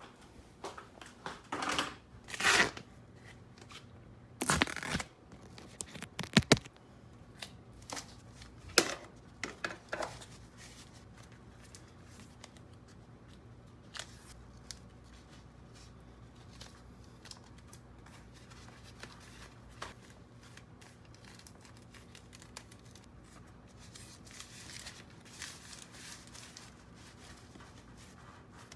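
Handling noises: a run of sharp clicks, scrapes and rustles over the first ten seconds, then only a faint steady low hum.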